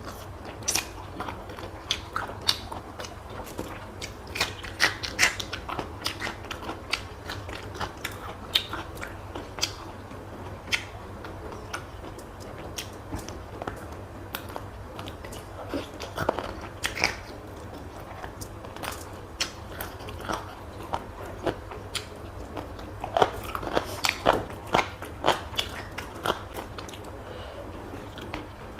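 A person chewing and biting food close to the microphone, with irregular crisp clicks and crunches of the mouth and food, coming in thicker clusters about five seconds in and again near the end.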